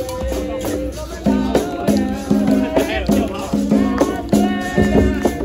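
Capoeira roda music: berimbaus playing a repeating rhythm of short twanging notes, with the caxixi shaker rattling, steady drum and tambourine beats, and voices singing over it.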